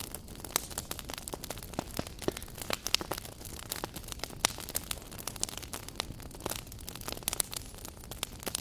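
Wood fire in a fireplace crackling: irregular sharp pops and snaps, several a second, over a low steady hiss of burning.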